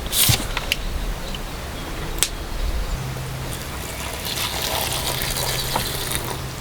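Hot water being poured for instant noodles, a gushing pour that builds to a hiss in the second half, with a couple of light clicks early on.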